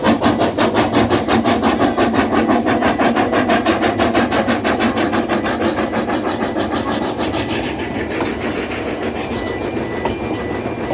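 Narrow-gauge train passing over a level crossing, a rhythmic beat about four times a second that fades after about eight seconds. A faint intermittent beeping tone starts near the end.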